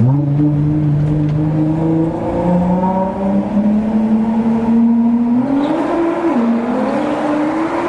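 Car engine revving under hard driving, its pitch stepping up at the start, rising and dropping again about two-thirds of the way through, then climbing near the end.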